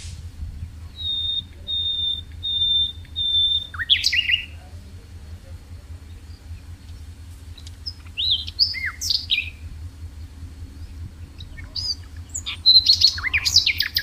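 A songbird singing. It gives four level whistled notes in a row, then a quick twittering phrase, and after a pause more varied chirping phrases. The last burst near the end is the loudest. A steady low hum lies underneath.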